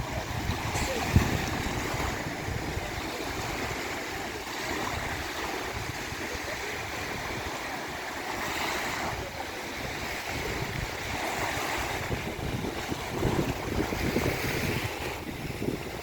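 Sea surf washing in, swelling and easing every few seconds, with wind buffeting the microphone.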